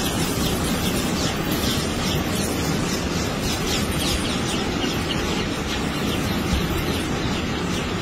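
Steady rushing outdoor noise with many short, falling bird chirps repeating high above it.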